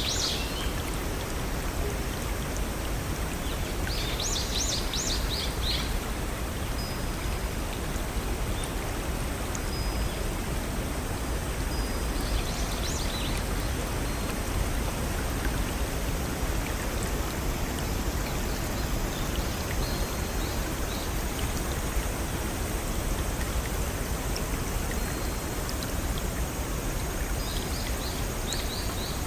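Small forest brook running over rocks in a steady rush of water, with a songbird giving short rapid high trills about four seconds in, again around twelve seconds, and near the end.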